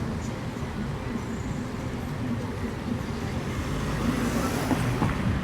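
City street traffic noise, steady, with a louder stretch about four seconds in as a vehicle passes close by.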